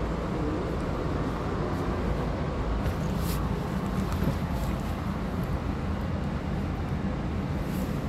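Steady low rumble of a Chu-Kuang express train, heard from inside a passenger coach just after its doors have closed, with a few faint clicks.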